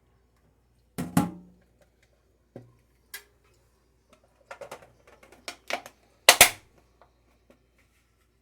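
Hard plastic knocks and clacks of acrylic storage containers being handled and set down, in scattered strokes with a quick run of clatter past the middle and the loudest double knock near the end.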